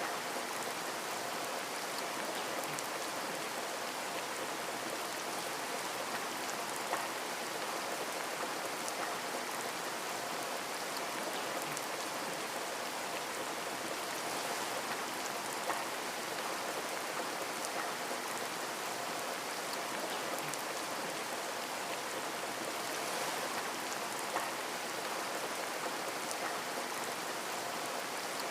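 Steady rain falling on a window: a dense, even patter of drops, with three slightly louder single drop hits spread through it.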